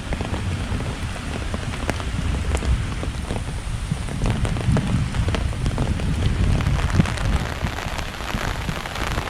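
Rain falling in a storm with strong, gusting wind: a steady rain hiss with many scattered drop hits, under a low, fluctuating rumble of wind buffeting the microphone.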